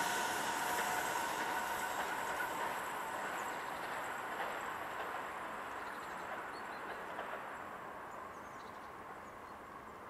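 A train that has just passed, its running noise fading steadily as it moves off into the distance.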